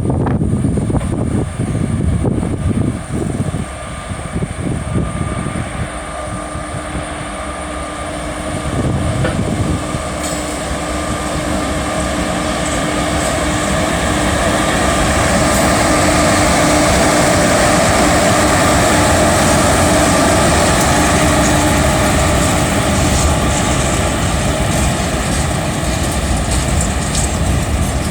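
Freight train hauled by an Indian Railways WAP1 electric locomotive running past with its BCN covered wagons. The rumble of the train builds over several seconds to a loud peak and stays loud, with a steady low hum running through the middle of it.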